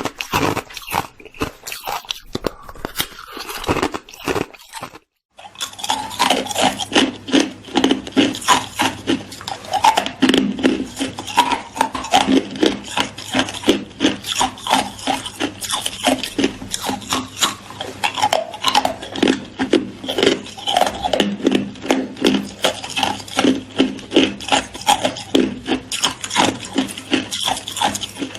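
Hard ice being bitten and chewed close to the microphone, crackling and grinding between the teeth. A few separate crunches, a brief break about five seconds in, then rapid, continuous crunching.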